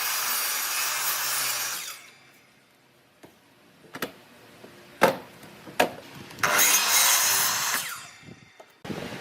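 Power saw cutting through wood twice, each cut about one and a half to two seconds long, with the motor humming underneath. Between the cuts come four sharp knocks, like wood being handled.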